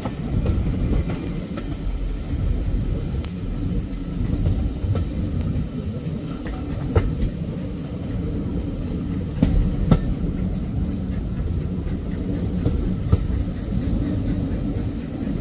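Passenger train carriage in motion: a steady low rumble of the wheels on the track, with a few sharp clicks and knocks from the wheels over the rail joints.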